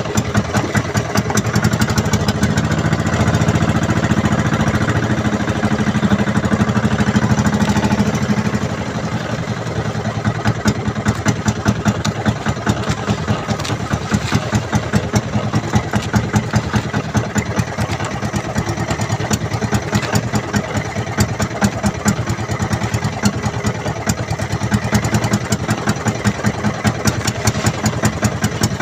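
Small fishing boat's engine running steadily with a quick regular chug. It is a little louder for about the first eight seconds, then runs on slightly lower.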